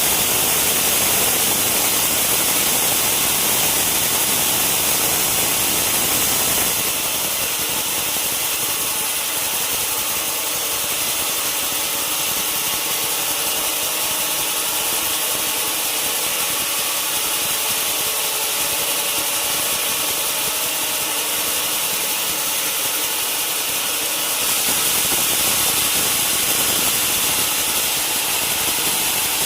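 Sawmill band saw (wheel saw) running steadily. It is louder and fuller for about the first seven seconds, drops, then rises again near the end.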